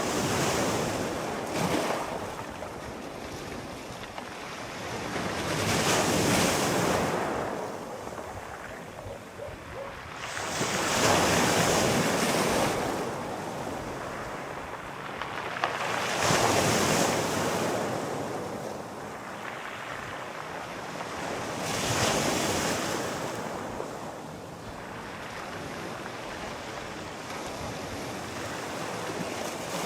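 Sea waves breaking and washing in, one surge about every five seconds, with a steady hiss of surf between them; the last several seconds are calmer.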